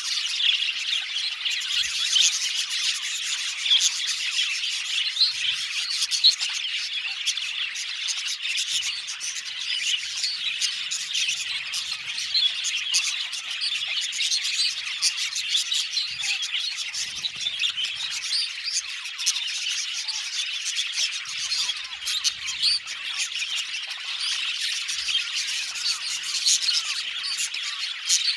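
A flock of budgerigars chattering, chirping and warbling together without a break, many birds calling over one another.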